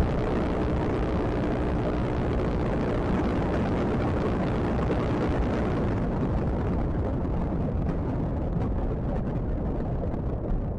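Steady rush of wind and road noise on the microphone of a moving motor scooter, heavy in the low end. The upper hiss thins out over the second half.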